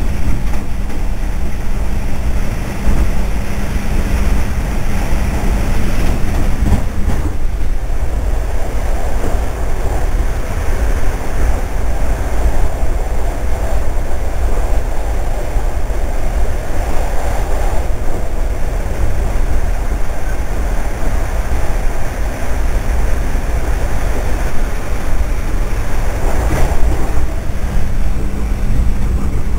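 Inside a moving regional passenger train: the carriage's steady running rumble and rattle on the track, with a constant low hum underneath.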